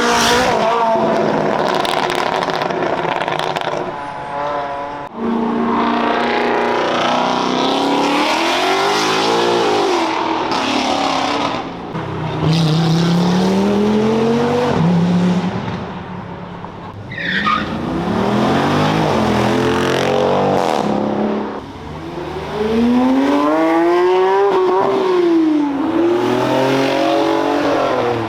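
Performance car engines revving and accelerating, their pitch climbing and dropping in repeated sweeps as one car after another pulls away, with a brief high falling squeal about two-thirds through.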